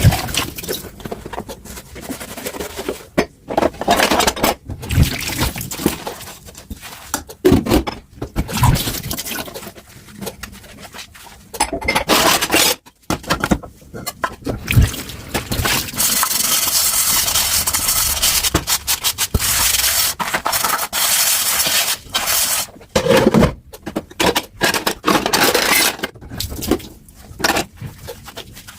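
Dishes being hand-washed at a sink: scattered clinks, knocks and scrapes of crockery, with the tap running steadily for several seconds past the middle.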